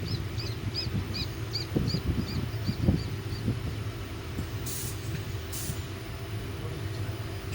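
Train running with a steady low rumble. Over the first three seconds there is a run of short high chirps, about three a second, and two brief hisses come near the middle.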